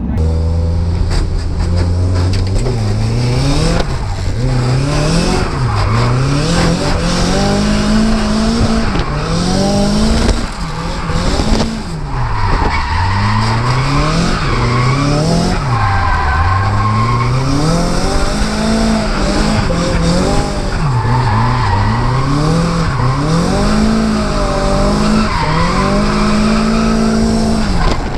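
Nissan S14's turbocharged SR20DET four-cylinder engine drifting, revving up and falling back over and over every two to three seconds, with tyres squealing.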